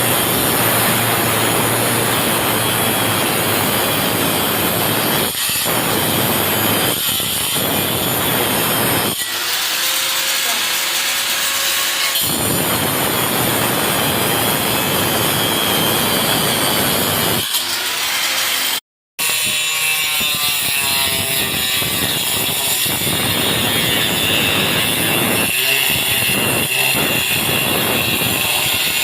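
Angle grinder cutting through wood: a loud, continuous rasping noise that eases for a few seconds about a third of the way in, then breaks off abruptly just past halfway and starts again.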